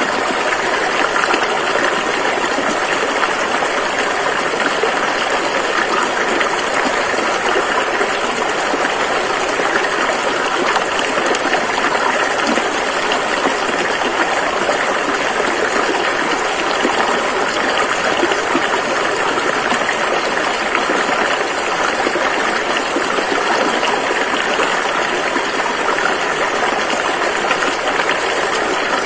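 River water rushing and splashing over rocks, a steady, unbroken hiss.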